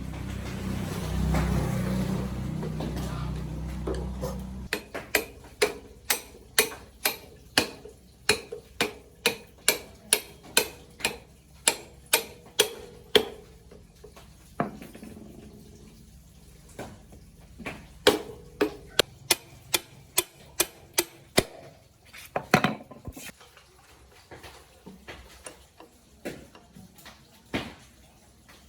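A low steady hum that stops about five seconds in, then a run of sharp taps at about two a second, becoming irregular and sparser later on.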